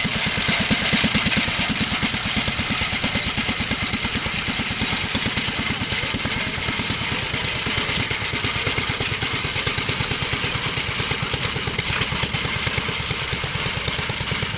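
Homemade tractor's engine running steadily, with an even, rapid firing beat.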